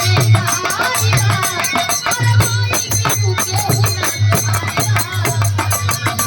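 Bhojpuri folk birha music: a fast, steady beat of jingling hand percussion over a low drum, with a melody line running above.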